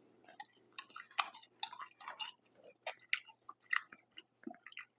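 Close-miked chewing: soft, irregular wet mouth clicks and smacks of a person eating.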